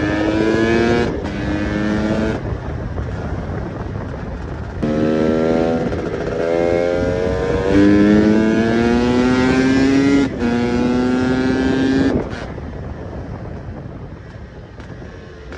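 KTM EXC 300 two-stroke single-cylinder engine accelerating up through the gears. In each gear the pitch rises steadily, then drops at each of several shifts. About twelve seconds in the throttle closes and the engine falls to a quieter, lower sound as the bike rolls off.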